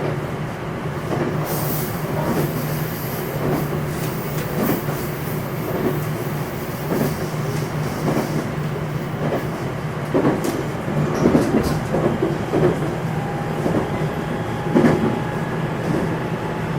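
JR West 227-series electric train running at speed, heard from on board the motor car KuMoHa 227-7: a steady low hum from the running gear under continuous rolling noise, with wheels knocking over rail joints at irregular intervals.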